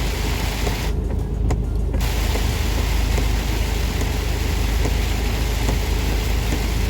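Semi-truck cab on the move in heavy rain: a loud, steady wash of rain and tyre spray over the low drone of the truck's engine.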